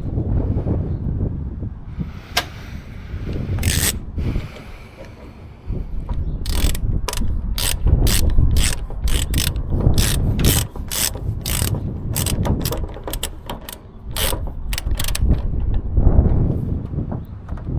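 A hand ratchet working a fastener: a run of sharp metallic ratcheting clicks, about two to three a second, starting about a third of the way in and stopping near the end. A low wind rumble on the microphone runs underneath.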